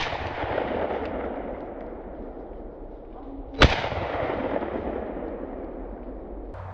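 Two shotgun shots fired at a rabbit, one right at the start and another about three and a half seconds later, each echoing away through the woods for a couple of seconds.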